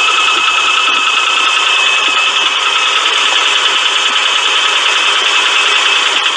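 Engine running with a continuous rattling, clacking noise, the sign of a loose timing belt tensioner, with a steady high whine along with it.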